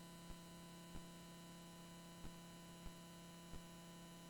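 Near silence: a faint, steady electrical hum with a few faint clicks.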